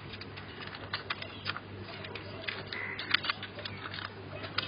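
Pet budgies pecking and climbing on their cage toys: irregular small clicks and taps of beaks and feet on plastic and wire, several a second.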